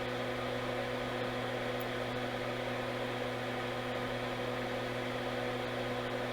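Steady low electrical hum with a soft fan-like hiss, unchanging throughout.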